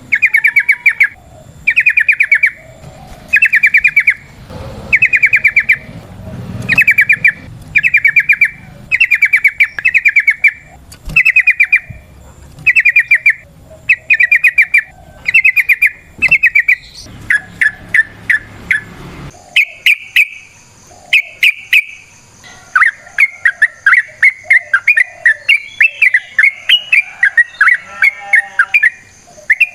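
Yellow-vented bulbul (trucukan) singing: loud, rapid bubbling trilled phrases repeated about once a second. Past the middle the song turns into a nearly continuous fast chatter.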